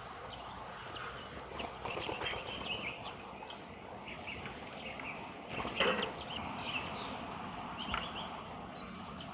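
Common starling calling: scattered short chirps, clicks and whistles over a steady background hiss, with the loudest call about six seconds in and another sharp one about eight seconds in.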